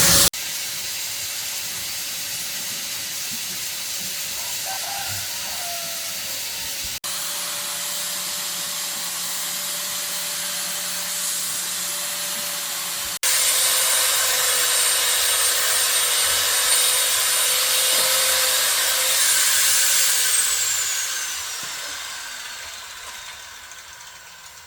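A motor-driven power tool runs steadily with a loud hiss and a high whine. About twenty seconds in it is switched off, and its pitch falls as it winds down.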